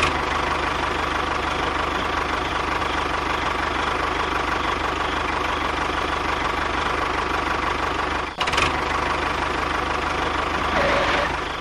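An engine-like motor running steadily with a fast, even chugging pulse, broken by a short dropout about eight seconds in.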